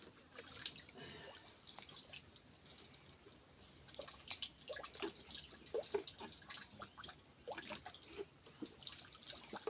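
Water dripping and splashing irregularly in a well, a scatter of small plops and ticks.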